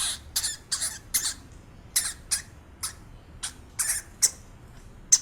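Hamster squeaking: a run of short, high-pitched squeaks, about two a second at uneven spacing.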